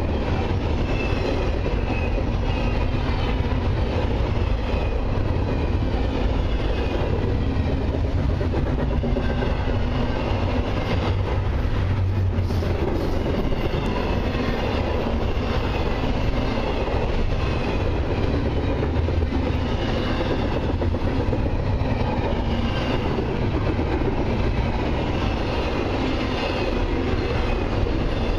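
Double-stack intermodal container cars of a long freight train rolling past close by: a steady rumble of steel wheels on the rails.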